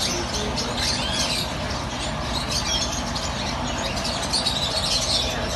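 Many small caged birds chirping at once, a dense chatter of short high chirps over steady low background noise.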